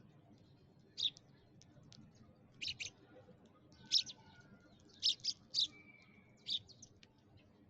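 Sparrow chirping: about eight short, sharp chirps, some single and some in quick pairs, with a thin held whistle in the second half.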